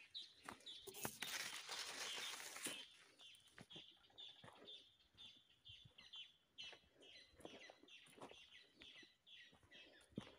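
Leaves rustling close by for the first three seconds or so, then a small bird chirping over and over, short falling notes about twice a second, with soft footsteps on dry soil.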